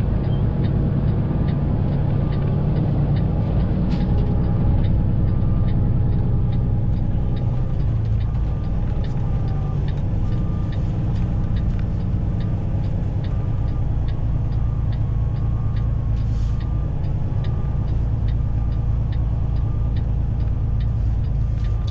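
Semi truck's diesel engine running steadily, heard from inside the cab, with a regular ticking about twice a second joining in about four seconds in.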